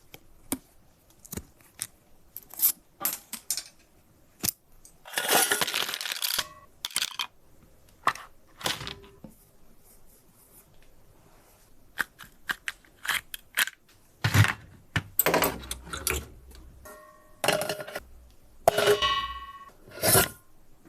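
Small metal parts of a right-hand bicycle shifter being handled and taken apart: scattered clicks and clinks, a scraping rustle about five seconds in, a few heavier knocks later, and short metallic rings near the end.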